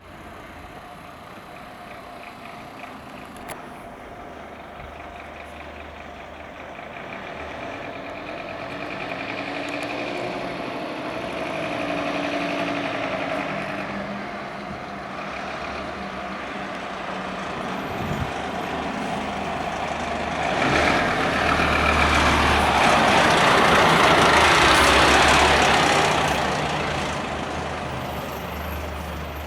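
Fire engine's diesel engine approaching and driving past: the sound builds over the first half, and the engine and tyre noise are loudest from about two-thirds of the way in, then fade.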